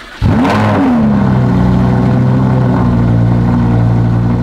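A car engine cold-starting: it fires about a quarter second in with a quick rev that rises and falls, then settles into a steady idle to warm up.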